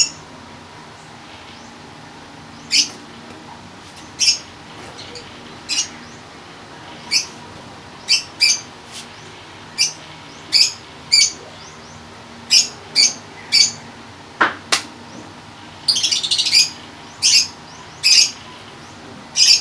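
A bird chirping repeatedly: short, sharp, high chirps every second or so, coming quicker in a brief flurry near the end.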